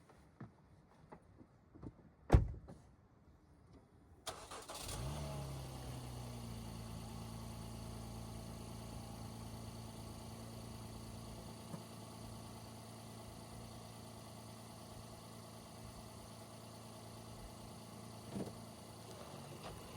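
A single loud thump, then a car engine starts about four seconds in and settles into a steady idle.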